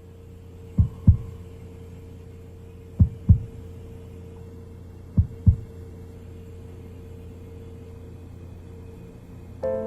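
Heartbeat sound effect: three slow double thumps, lub-dub, about two seconds apart, over a steady low drone. Soft tonal music comes in right at the end.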